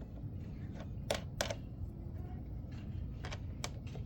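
A few sharp clicks and light knocks of equipment being handled, over a low steady rumble.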